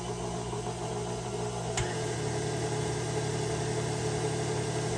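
KitchenAid stand mixer motor running steadily, driving the Spiralizer Plus attachment, with one short click about two seconds in. The cucumber is not advancing because the pusher has not been pushed up to it, so nothing is being cut.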